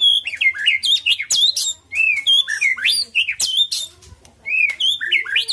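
White-rumped shama (murai batu) in full song: a fast run of varied gliding whistles mixed with sharp chattering notes, breaking off briefly about four seconds in and then starting again.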